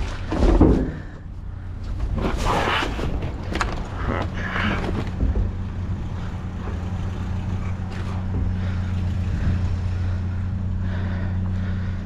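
A vehicle engine idling steadily with a low, even hum. Over it come a few short clattering scrapes of loose items being handled in the first five seconds.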